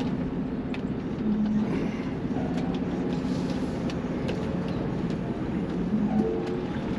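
Semi truck's diesel engine running low and steady, heard inside the cab, with a few light rattles.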